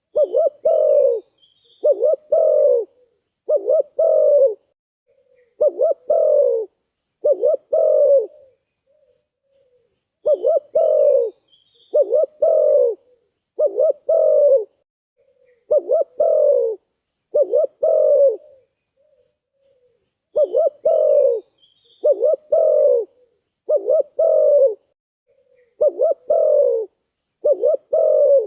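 Spotted dove (tekukur) cooing in three bouts of five call phrases, each phrase about a second long, with a pause of about two seconds between bouts. Faint high chirps sound at the start of each bout.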